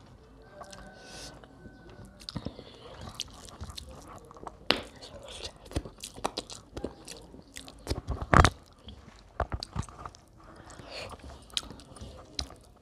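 Close-miked chewing of a mouthful of rice and curry eaten by hand, with many short, irregular wet clicks and smacks from the mouth; one louder smack comes about eight seconds in.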